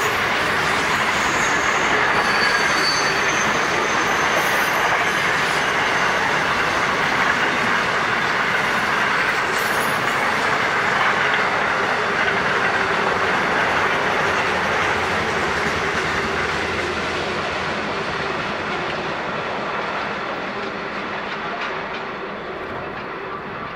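Freight train wagons rolling past on steel wheels, a steady running noise with a few thin wheel squeals early on. The sound fades over the last several seconds as the end of the train draws away.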